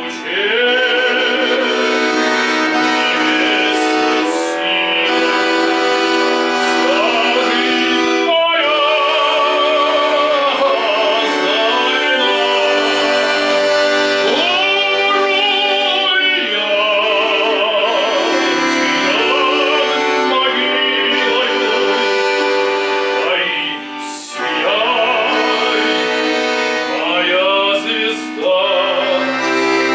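Music: a song sung with strong vibrato over sustained instrumental accompaniment, with brief breaks in the phrasing about eight seconds in and again near 24 seconds.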